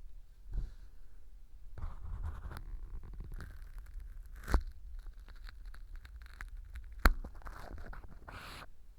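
An ear-cleaning tool scraping and crunching dried fu glued as fake earwax inside a clear tube ear model, close to the microphone. The fu has soaked up the glue and sticks hard, so the scraping is gritty. Two sharp clicks stand out, about four and a half and seven seconds in.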